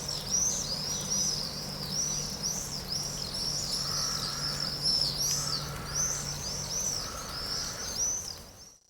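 A chorus of small birds chirping rapidly and continuously, many short high notes a second, with a few lower warbling calls from another bird, over a steady low hum; it fades out near the end.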